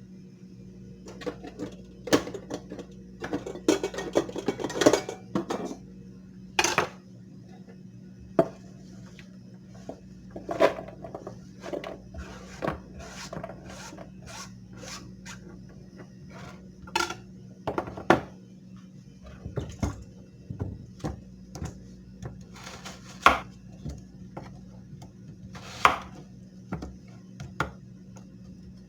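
Steel knife blades clinking and scraping in irregular strokes, some short and sharp and a few longer rasping ones, over a steady low hum.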